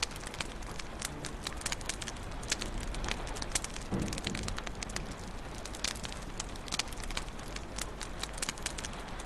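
Wood fire burning in a fireplace, with many quick sharp crackles and pops over a steady hiss. A soft low thump about four seconds in.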